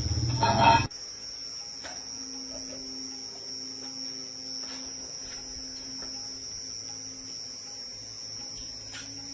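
A small single-cylinder motorcycle engine running, which cuts off abruptly about a second in. A steady hum follows, with a few faint clicks.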